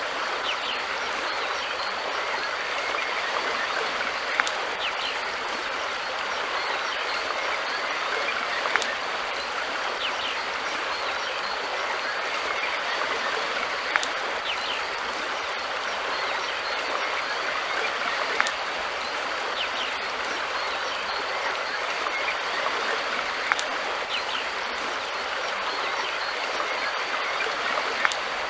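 Steady rushing of flowing river water, with a sharp click every four to five seconds.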